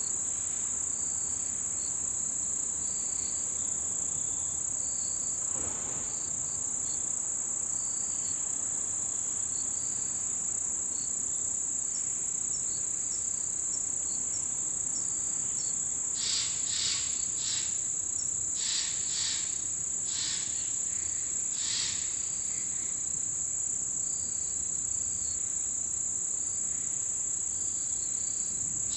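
Chorus of autumn insects such as crickets: one continuous high-pitched trill under short, repeated chirps from another insect. A handful of louder calls break in about two-thirds of the way through.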